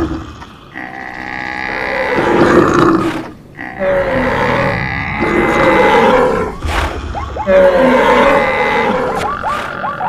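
Many animal calls layered over one another: roars, grunts and bellows from a mixed herd, with no let-up apart from two brief dips.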